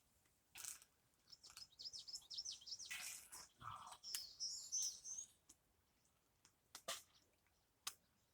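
A small bird chirping: a run of quick, high, falling chirps for a few seconds. A few brief tearing sounds of feathers being plucked from a chicken come in between.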